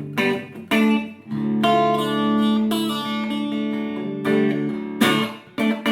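Electric guitar played through an amplifier's natural, unboosted tone and picked up by a room microphone. A few chords are struck, and one is left to ring for about three seconds before more are struck near the end.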